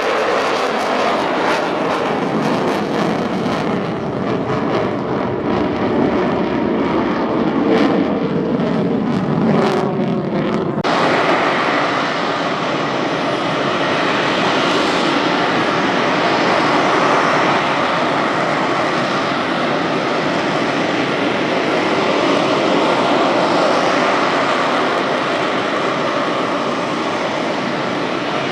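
Loud, continuous engine roar from an aerobatic jet aircraft performing its display. Its pitch falls over the first ten seconds or so as it passes, then it settles into a steady roar.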